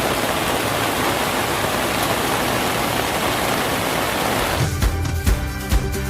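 Mountain stream rushing steadily, an even hiss of running water; background music with a beat cuts back in about four and a half seconds in.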